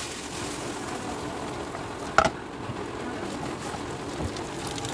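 Rice vermicelli and shredded cabbage sizzling in a nonstick wok as they are stir-fried with a spatula, with one sharp knock about two seconds in.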